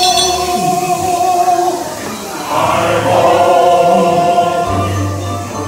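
Music with a group of voices singing long held notes, in two phrases with a short dip between them about two seconds in.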